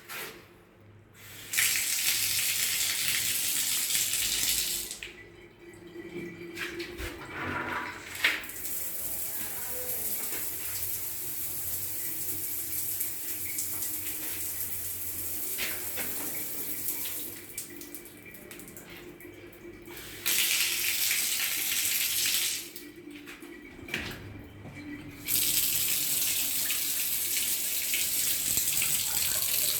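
Water running from a bathroom tap, turned on and off several times. It comes in loud, hissing gushes of a few seconds each, with a quieter, steadier flow between them.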